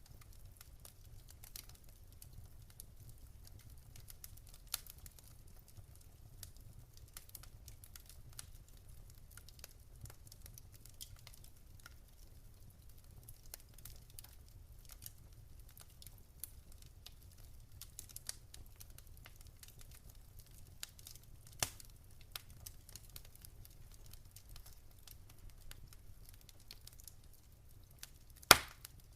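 Wood fire in a fireplace crackling softly, with scattered small snaps and pops and one loud pop near the end.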